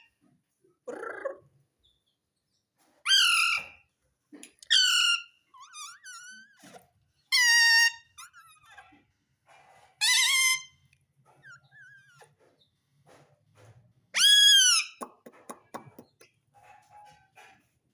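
Ring-necked parrot calling: five loud, high, arching squawks a couple of seconds apart, with softer chattering notes between them. A quick run of clicks follows the last squawk.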